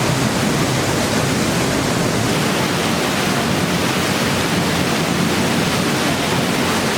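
Waterfall pouring down close by, a loud, steady rush of falling water from behind the falls.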